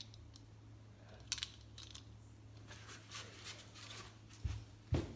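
Light clicks and taps of die-cast toy cars being handled on a toy car track, with two dull thumps near the end, over a low steady hum.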